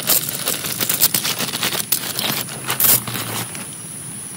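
Irregular sharp taps and crackles, coming thick and fast until about three and a half seconds in, over a steady hiss of heavy rain.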